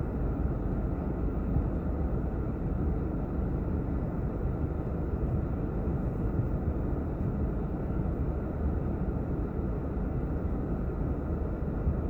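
Steady low rumble of a car on the move: tyre, road and engine noise, with no distinct knocks or squeaks standing out.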